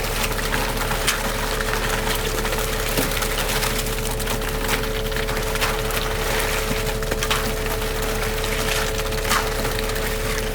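A machine motor running with a steady hum, over a gritty churning noise with scattered clicks and knocks.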